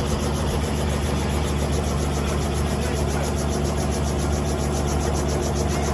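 Helicopter running steadily, heard from inside: a constant low engine drone with a fast, even beat from the rotor.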